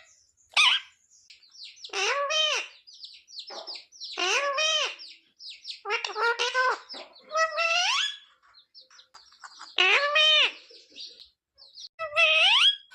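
Parrot calling in a string of short, speech-like calls, each under a second, bending up and down in pitch, with brief gaps between them.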